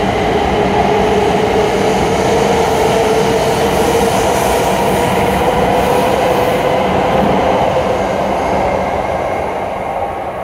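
E7 series Shinkansen train pulling out along the platform: a steady rumble with a slowly rising whine as it gathers speed, fading near the end as the last car goes by.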